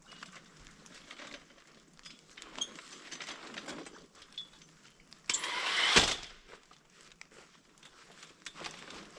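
Camping gear being handled and packed: scattered rustling and small clicks, with one louder scraping rush about five seconds in that ends in a sharp knock.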